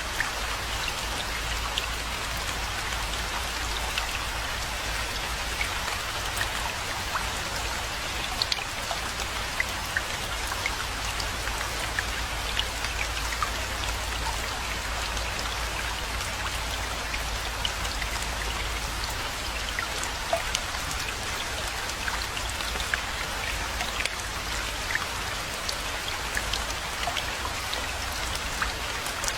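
Steady rainfall, with many separate drops pattering close by over an even hiss and a faint low rumble underneath.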